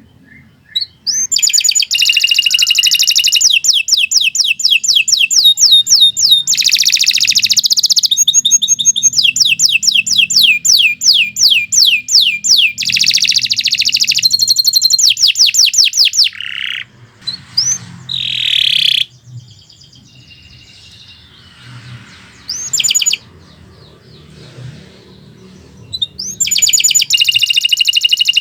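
Canary singing a long, loud song of fast repeated notes and rolling trills for about fifteen seconds, then a few short separate phrases, before breaking into another long run of song near the end.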